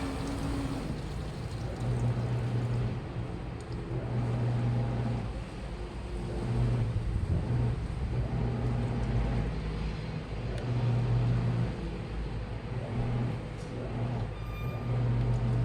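Washing machine running, its motor humming in repeated stretches of one to two seconds with short breaks between, over a steady mechanical rumble.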